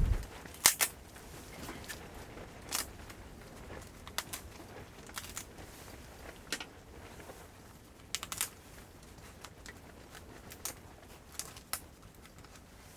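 Irregular sharp clicks and crackles, about one a second and some in quick pairs, over a low, quiet background.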